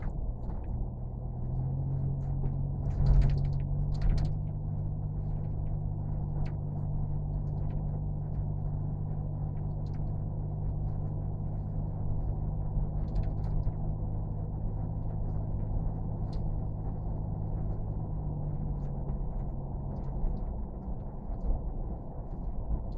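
Steady low rumble of a running engine with a low hum over it, the hum setting in about a second in and fading near the end; two sharp knocks about three and four seconds in.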